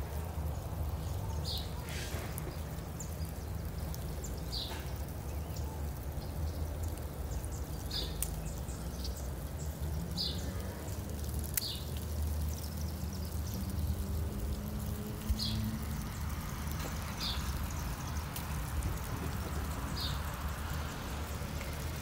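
Outdoor ambience: a steady low rumble on the microphone, with a short high bird chirp repeating every two to three seconds.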